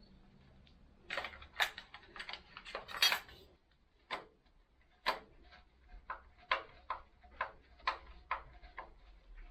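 Metal clinks and knocks of tools on motorcycle parts, irregular at first with the loudest knock about three seconds in, then a run of light, even taps about twice a second from about five seconds in.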